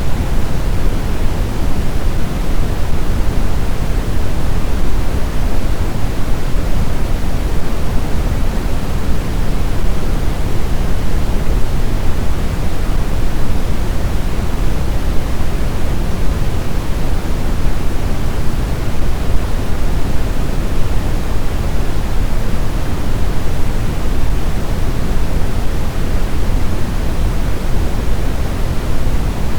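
Blizzard wind: a steady, deep rushing noise, heaviest in the low end, with no gusts, howls or breaks.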